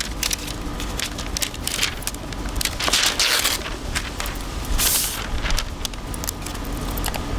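Packaging of a new laptop being handled and opened: crinkling and rustling with many small clicks and crackles, and two louder rushes of rustling about three and five seconds in.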